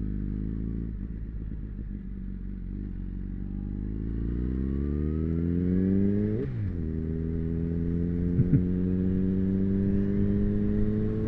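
Motorcycle engine idling, then pulling away with its pitch rising under acceleration. A quick dip at an upshift comes about six and a half seconds in, then the engine climbs steadily again in the next gear.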